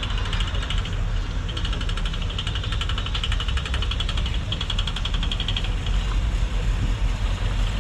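1955 Cadillac's V8 engine running at low speed with a steady low rumble and a light, fast rattle over it.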